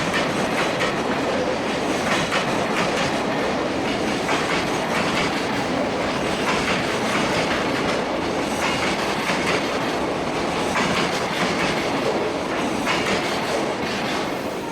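Wagons of a long JR Freight container train rolling past at speed, wheels clacking steadily over the rail joints.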